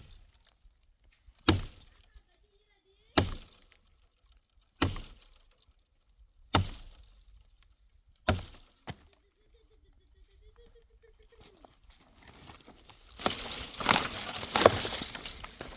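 Axe blows chopping firewood: five sharp strikes about every second and a half, with a lighter knock after the last. From about twelve seconds in come louder crackling and snapping of dry branches and brush being broken and handled.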